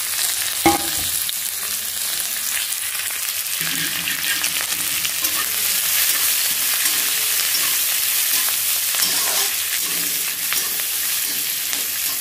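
Sliced onions, garlic and green chillies sizzling in hot oil in a kadhai, stirred and scraped around the pan. A sharp knock sounds about a second in.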